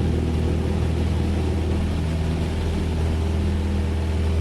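Cessna 172S's four-cylinder Lycoming engine and propeller running steadily at takeoff power, heard inside the cabin, during a soft-field takeoff roll.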